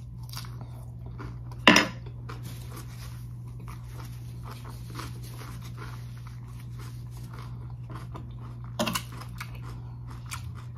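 Close-miked chewing and crunching of a mouthful of romaine lettuce salad, with a steady low hum underneath. There are two louder sharp sounds, one about two seconds in and one near the end.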